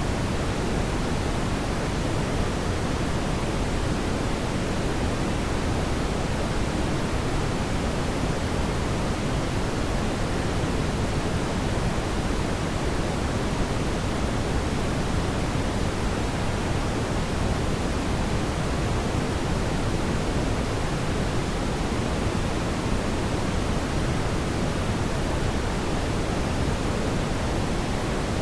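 Fire in a fireplace, a steady, even rushing hiss that is deepest in the low end, with no distinct crackles or pops.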